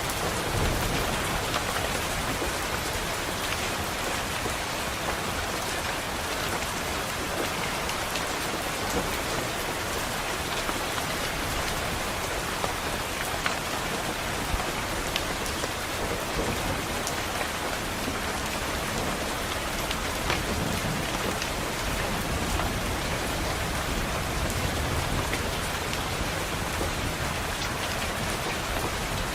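Steady rain falling on a window pane, an even hiss with scattered sharper drop taps, and low thunder rumbling now and then underneath.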